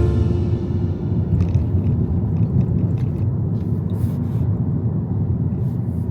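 A low, steady rumbling noise that fades slightly near the end, with a few faint clicks over it.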